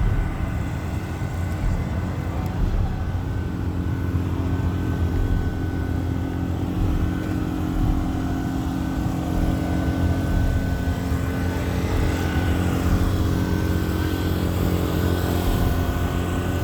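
Motor vehicle engine running steadily: a continuous low drone with a faint thin whine above it.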